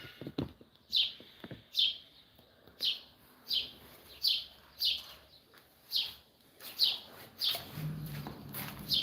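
A bird chirping over and over, each call a short note falling in pitch, repeated about every half second to a second. A low steady hum comes in near the end.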